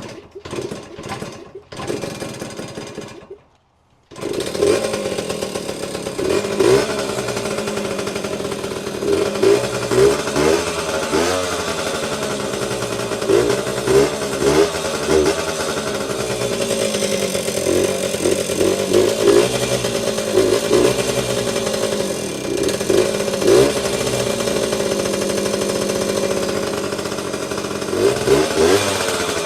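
Vintage Yamaha 80cc two-stroke enduro motorcycle engine starting up. A few uneven bursts at first, then it goes quiet for a moment and catches about four seconds in. It then runs steadily, with repeated quick throttle blips that rise and fall in pitch.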